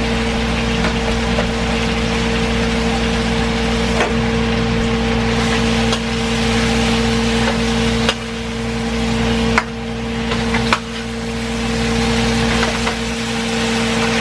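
Canned mackerel, peppers and onions sizzling in a frying pan, with a metal spoon stirring and knocking against the pan a few times in the second half. A steady low hum runs underneath.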